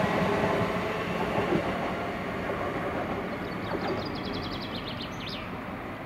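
A train running past and moving away, its steady running sound with a few held tones fading gradually. A quick run of high chirps comes between about three and a half and five and a half seconds in.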